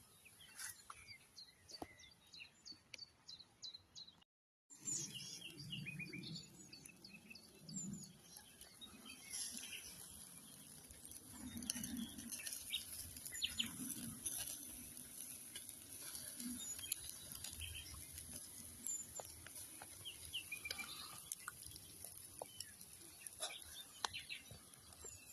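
Small birds chirping and singing in many short repeated calls over a steady high hiss. The sound cuts out completely for about half a second around four seconds in, after which soft low rumbles come and go beneath the birdsong.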